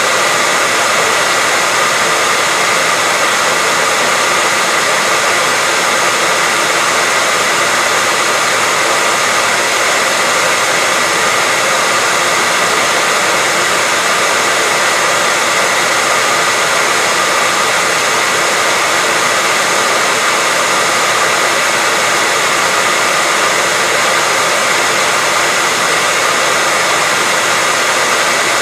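Hair dryer running steadily: a loud, even rush of air with a faint high whine, played as white noise to soothe a baby to sleep.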